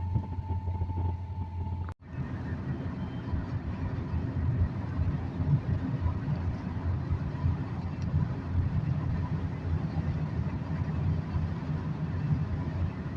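A vehicle on the move: steady low engine and road rumble. The sound cuts out sharply about two seconds in and comes back as a rougher, uneven rumble.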